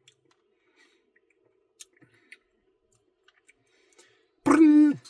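Scattered faint clicks of mouth and eating noise. Then, about four and a half seconds in, a man's short, loud vocal hum that holds one pitch and then drops.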